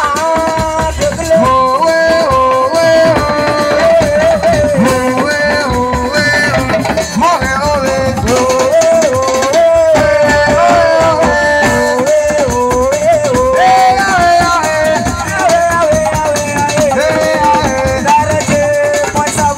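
Live assiko band music: a stepping lead melody over a busy rhythm of shakers and drums.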